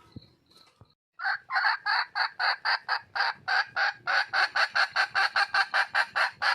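Red junglefowl hen calling for a mate: a fast, loud run of short repeated notes, about five a second, starting about a second in and quickening slightly toward the end.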